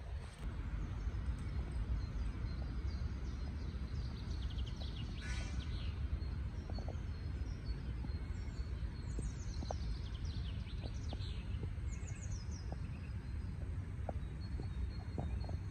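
Birds chirping in several runs of short, falling calls over a steady low rumble of outdoor noise.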